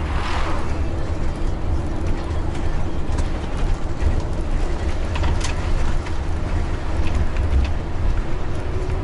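Bus engine running with a steady low rumble and hum as it drives, with scattered short rattles and clicks.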